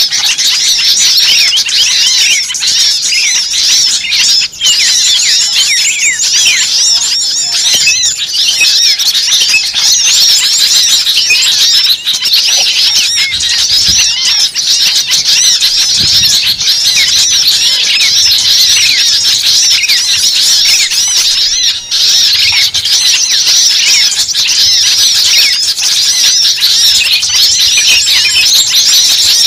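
Loud, dense chorus of many small songbirds chirping, squeaking and twittering all at once with no pause: a bird-lure recording of agitated small-bird calls of the kind that draws other small birds in.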